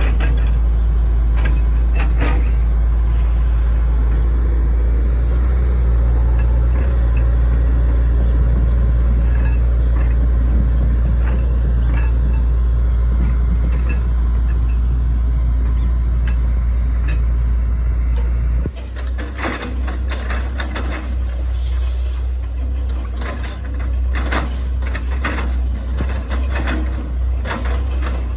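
Hitachi ZX110 MF excavator's diesel engine running steadily. About two-thirds of the way through, the drone drops suddenly and gives way to a run of irregular knocks and cracks.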